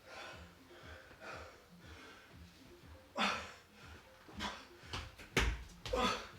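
Heavy, gasping breaths of a person exercising hard, with a few loud exhalations in the second half and a couple of dull thumps near the end.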